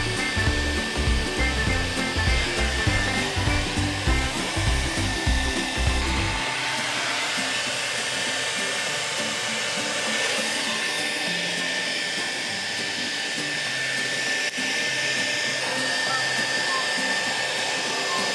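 Hair dryer blowing steadily while drying a puppy. Background music runs alongside, with a heavy bass beat that drops out about six seconds in.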